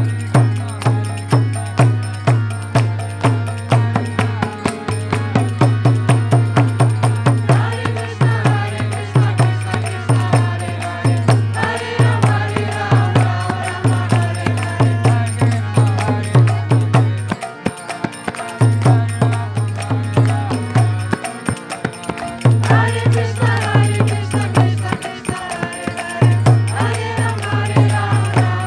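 Kirtan: voices chanting a mantra to a steady rhythm of drum beats and hand cymbals, with the drum dropping out briefly a few times.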